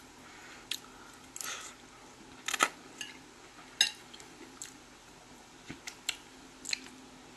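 Close-up mouth sounds of someone chewing a mouthful of ramen noodles: irregular wet clicks and smacks, about nine in all, the loudest about two and a half seconds in.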